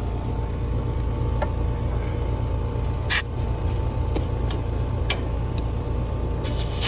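Central air conditioner's outdoor condenser running with a steady low hum, its compressor and fan working again on a newly replaced dual run capacitor. A short sharp hiss comes about three seconds in and a longer one near the end: refrigerant escaping as the gauge hoses come off the service ports.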